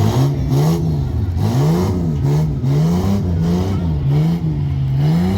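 Tuff truck engine revving hard up and down over and over, the pitch rising and falling about once every second as the throttle is worked.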